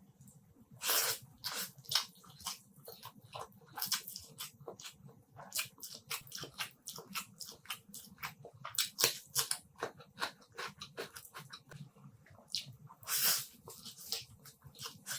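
Close-miked eating sounds: wet chewing and lip smacks come as a rapid, irregular run of sharp clicks. Louder, longer bursts come about a second in and again near the end.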